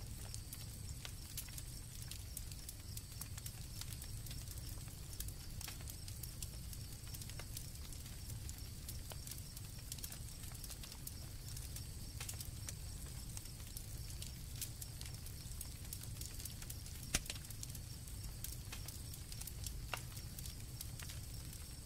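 Night campfire crackling, with irregular sharp pops over a low steady rumble, one louder pop about three quarters of the way through. Crickets trill high and steady behind it.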